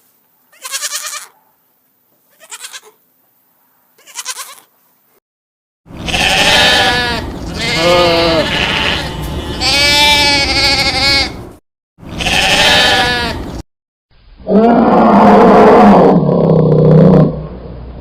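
Goats bleating. A few short, faint calls come first, then several loud, long bleats with a wavering pitch, and near the end a lower, harsher call.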